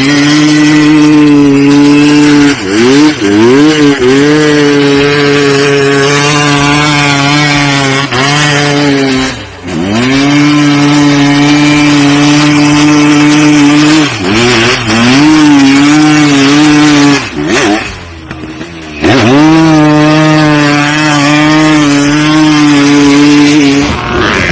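Off-road vehicle engine running at high revs, very loud, held at a steady pitch for long stretches. The throttle is chopped and reopened several times, so the pitch dips and climbs back up.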